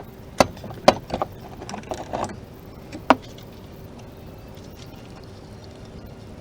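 A few sharp clicks and knocks of small parts being handled, the last and loudest about three seconds in, followed by a faint steady hum.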